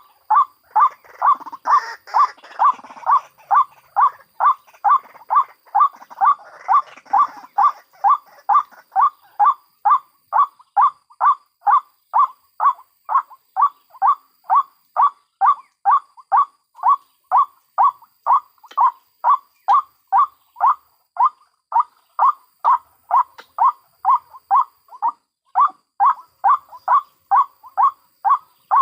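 White-breasted waterhens (ruak-ruak) calling: one call repeated over and over in a steady rhythm, about two or three calls a second. In the first several seconds a second, rougher voice calls over it.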